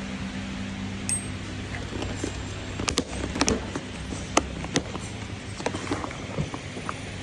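A dozen or so scattered sharp clicks and light knocks, starting about a second in, over a steady low hum.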